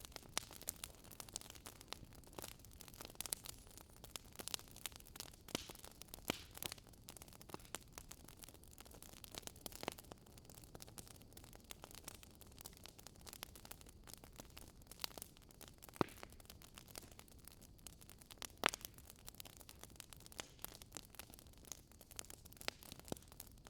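Campfire crackling: a soft steady hiss with frequent sharp pops and snaps, two of them louder in the second half.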